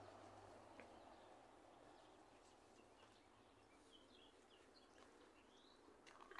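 Near silence, with a few faint, short bird chirps in the middle.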